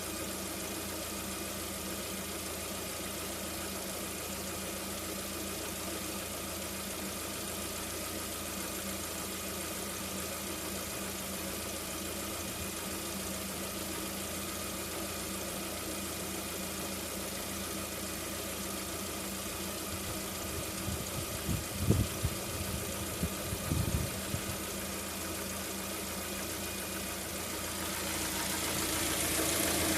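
Lada Vesta 1.6 engine idling steadily with a knock in it, which the owner takes for piston knock. A few louder thumps come about two-thirds of the way through, and the sound grows louder near the end.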